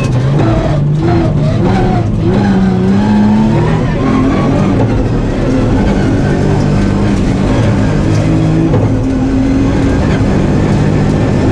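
Nissan 350Z rally car's V6 engine driven hard from inside the cabin, its pitch climbing and falling as the driver works the throttle. It upshifts from second to third about nine seconds in.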